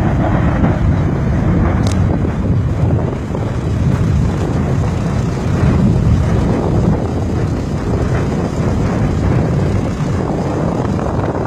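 Strong wind buffeting the microphone: a loud, steady low rumble with gusts.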